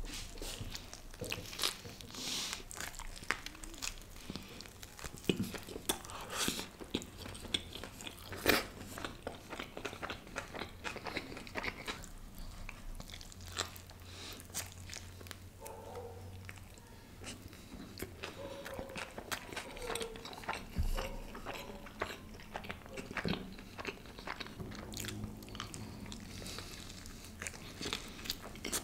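Close-miked biting and chewing of a stuffed khameeri roti wrap filled with pav bhaji, chicken tikka, onion and a momo: repeated short crunches and wet mouth clicks.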